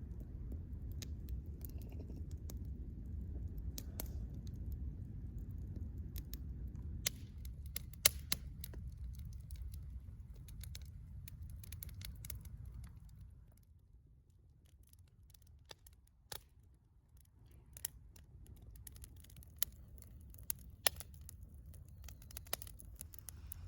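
Firewood crackling in a campfire, with sharp pops scattered irregularly, the loudest about eight seconds in. A low rumble sits underneath for about the first half and then drops away.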